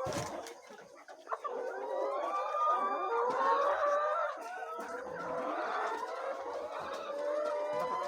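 A flock of laying hens clucking and calling, many overlapping voices at once.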